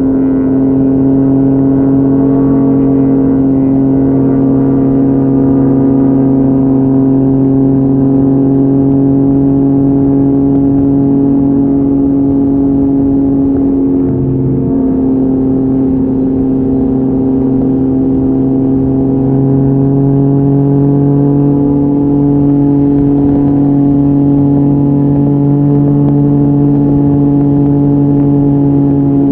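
A 2019 Yamaha MT-09's inline-three engine with an Akrapovic exhaust, ridden at a steady, held engine speed. The note dips briefly about halfway through, then settles again.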